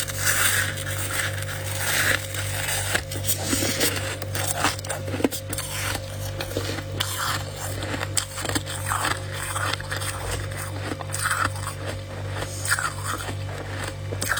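Frost being crunched and scraped by hand and bitten, in many short, irregular crunchy bursts over a steady low hum.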